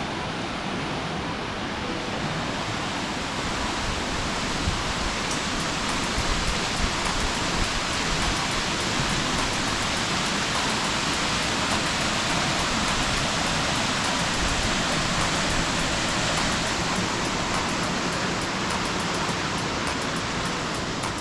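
A waterfall rushing with a steady, even roar of falling water.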